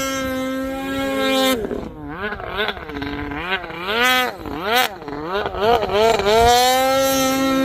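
Snowmobile engine held at high revs, then revved up and down in quick blips for a few seconds, then held high again near the end.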